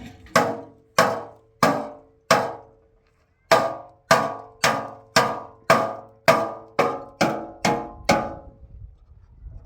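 Repeated hammer blows on metal, each with a short ringing decay: five strikes, a pause of about a second, then about ten more coming slightly faster.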